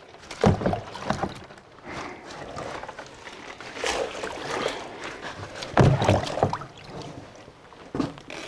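Soybean slurry and soy milk sloshing and splashing in irregular bursts as the ground beans are squeezed and worked by hand to press out the soy milk.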